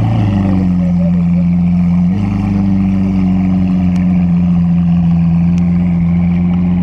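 Lamborghini Aventador S's 6.5-litre V12 held at raised revs: the exhaust note steps up in pitch just after the start and again about two seconds in, then holds steady.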